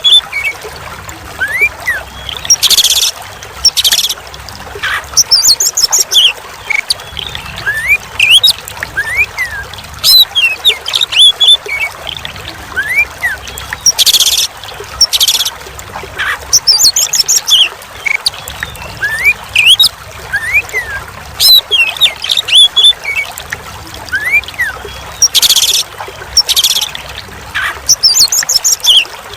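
Oriental magpie-robin (kacer) singing a varied string of whistles, chirps and harsh chattering notes over a steady trickle of running water, the same song pattern recurring every ten seconds or so.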